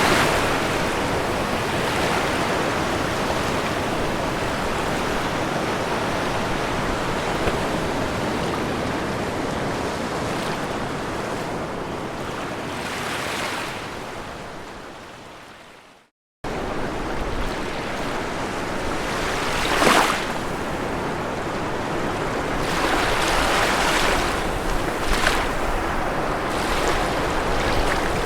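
Ocean waves washing on a shore in a steady rush. The sound fades away to a moment of silence about halfway through, then cuts straight back in, with waves breaking a few seconds later.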